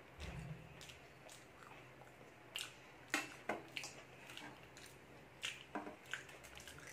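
Eating sounds: chewing with scattered wet mouth clicks and lip smacks, and a dull thump just after the start. Near the end come a couple of sharper clicks with a short ring, as steel tableware on a steel plate is handled.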